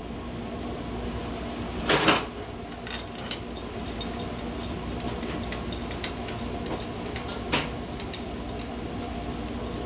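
Light metallic clinks and taps of small bolts and hand tools being handled during engine reassembly, with two short, louder scraping noises about two seconds in and again near eight seconds.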